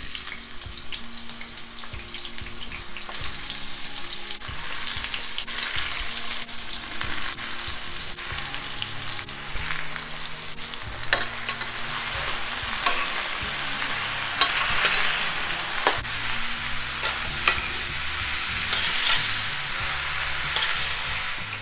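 Chopped brinjal (eggplant) sizzling as it fries in hot oil in a metal kadai, with a spatula stirring the pieces and clicking against the pan several times in the second half.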